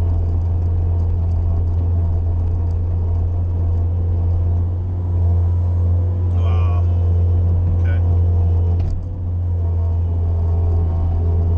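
Bobcat skid-steer loader's engine running steadily under load, a heavy low drone. A short higher-pitched sound comes about six seconds in, and a sharp knock near nine seconds.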